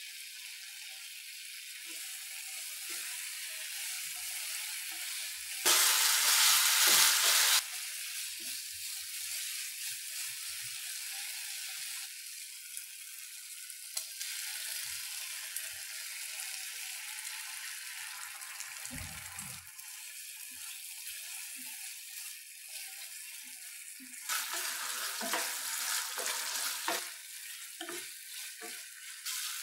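Marinated chicken pieces sizzling as they fry in a pan, a steady hiss. A much louder burst of sizzling lasts about two seconds around six seconds in, and the sizzling grows louder and choppier again near the end, with a few light knocks.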